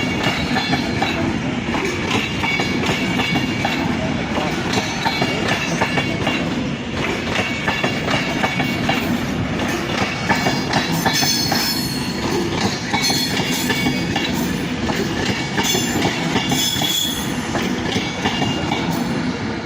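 Class 390 Pendolino electric train pulling into the platform, its wheels clattering over the rail joints with high-pitched squealing from the wheels and brakes, strongest about halfway through.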